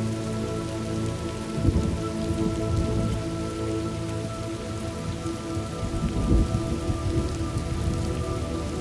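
Thunderstorm: steady rain falling, with low rolls of thunder swelling up about a second and a half in and again about six seconds in.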